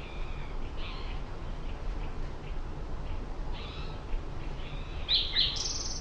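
Wild birds calling with short, high chirps, a few scattered through and two louder sharp ones near the end, over a steady low rumble.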